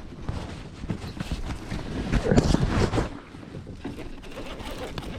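Wind noise on the microphone with irregular knocks and rattles from handling gear in a kayak, louder about two to three seconds in.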